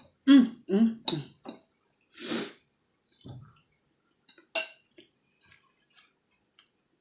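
A woman eating with her mouth full, humming "mm" in enjoyment about four times in quick succession, then a noisy breath and a few soft wet mouth clicks of chewing.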